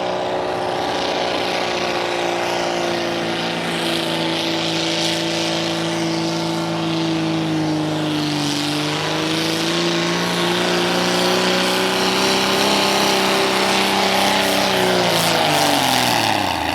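Pulling vehicle's engine running at high revs under full load while dragging the weight-transfer sled down the track. The pitch sags a little about halfway, recovers, then drops steeply near the end as the throttle comes off.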